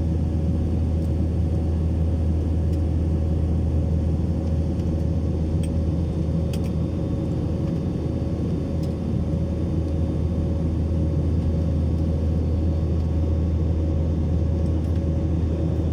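Steady low drone of an airplane, even and unbroken, with a few faint clicks about six and a half seconds in.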